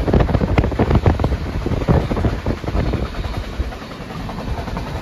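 Passenger train coach running at speed, heard at the window: an irregular clatter of wheels over the rails over a low rumble and rushing air. It is loudest in the first two seconds and eases off after about three.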